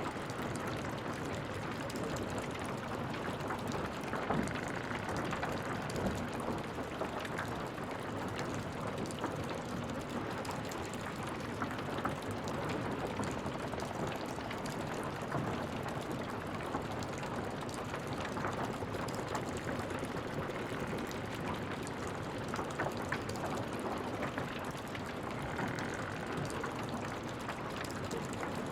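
Wood fire in a fireplace crackling, with irregular sharp snaps over a steady hiss.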